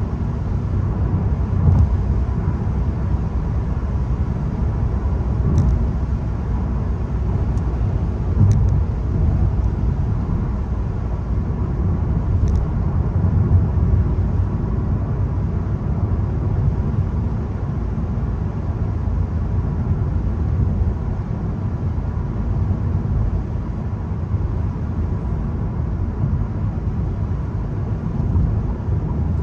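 Steady low rumble of a VW Golf 1.0 TSI on the move: its three-cylinder turbo petrol engine mixed with tyre and road noise. A few faint short clicks come through about six, eight and twelve seconds in.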